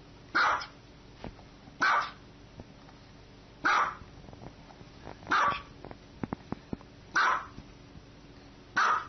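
A small white dog barking six times in a slow, even series, about one short bark every second and a half or so.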